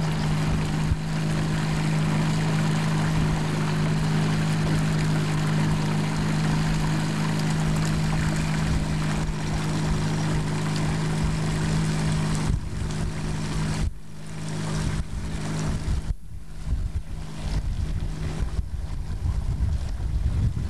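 Motorboat engine running steadily, dropping away about twelve seconds in; after that, wind buffeting the microphone.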